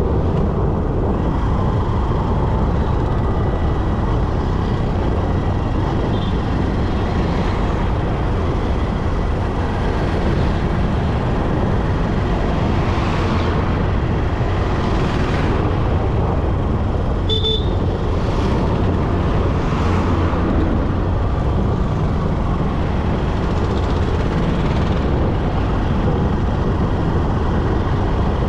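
Steady road and wind noise on a motorcycle riding through city traffic, with vehicles whooshing past several times and a short horn toot about seventeen seconds in.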